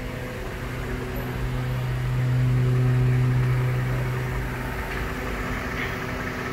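Mercedes-Benz GL500's V8 engine idling: a steady low hum that swells louder for a couple of seconds midway, then settles back.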